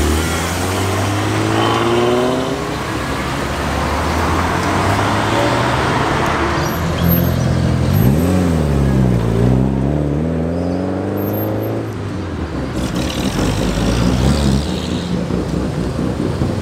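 Cars accelerating away one after another, the first with its engine note rising as it pulls off. About eight seconds in, a Mitsubishi Lancer Evolution's turbocharged four-cylinder revs up hard, dips at a gear change and climbs again, then cuts off sharply about four seconds later.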